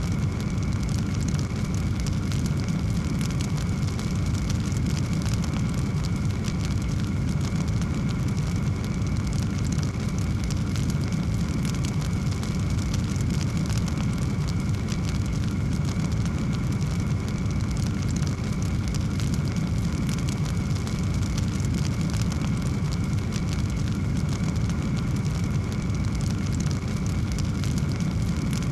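Wood fire burning in a fireplace: a steady low roar of flames with dense, fine crackling throughout.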